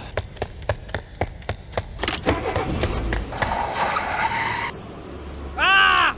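Sound effects for an animated toy-car film: a quick run of clicks, then a rushing car-like noise, and a short pitched sound that rises and falls near the end.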